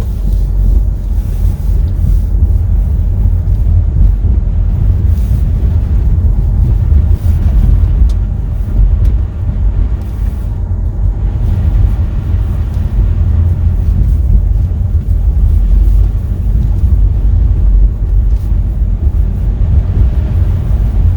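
Car being driven slowly on snowy roads, heard from inside the cabin: a steady low rumble of engine and road noise.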